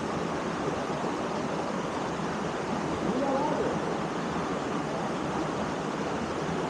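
Waterfall pouring into a pool: a steady, even rush of falling water. Faint voices sound briefly in the background about halfway through.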